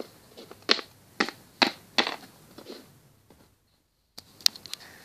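Plastic toy figure tapped along a hard surface as footsteps: a run of sharp taps about two a second, stopping for a moment and then a few more near the end.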